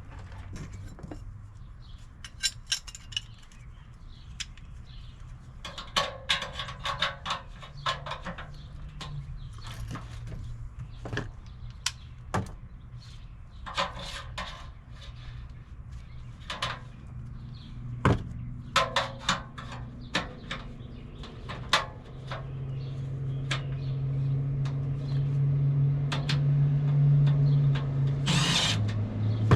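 Hand work with tools on a furnace blower assembly: scattered knocks and clicks, with several short runs of a cordless driver. In the last several seconds a steady low hum builds up and grows louder, and a brief loud hiss comes just before the end.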